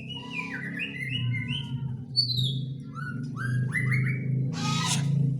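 Young white-rumped shama (murai batu) singing: a run of quick whistled phrases that glide up and down, over a steady low hum, with a short hiss near the end.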